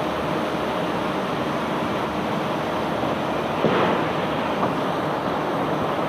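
Steady rushing, grinding noise of a self-unloading barge discharging cobblestones, with a louder clatter a little over halfway through.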